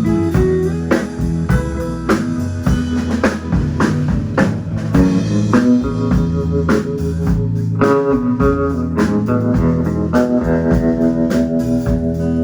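A live band playing a blues-style tune, with guitar over a drum kit keeping a steady beat.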